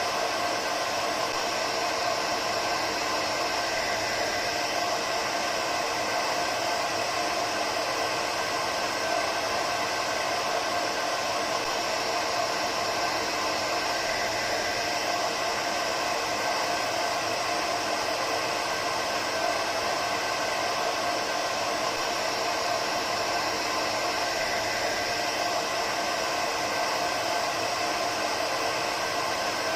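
Hair dryer running steadily: a constant airflow rush with a faint motor whine, unchanging throughout.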